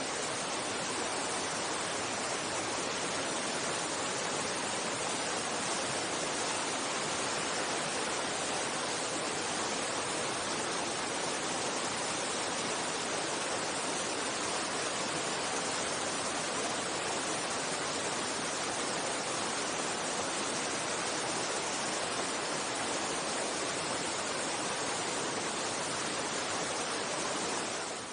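Mountain stream water rushing steadily over rocks: a constant, even hiss.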